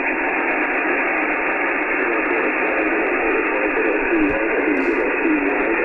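Single-sideband receiver hiss from an Icom IC-9700 on the 70 cm band, a steady, narrow radio-speaker noise, with the distant station's voice faint and wavering under it, fading up and down (QSB) on the aircraft-reflected signal. A brief thump about four seconds in.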